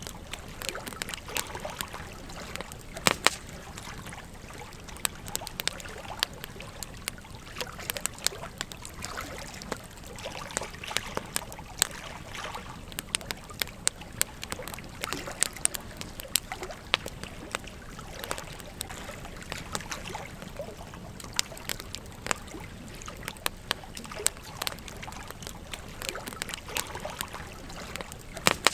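Campfire crackling with irregular sharp pops and snaps over the steady running of a gentle stream.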